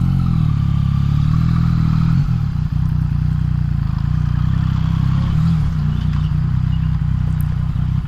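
Yamaha MT-09's three-cylinder engine running at low revs, its pitch dipping and rising slightly a couple of times, with a few small clicks.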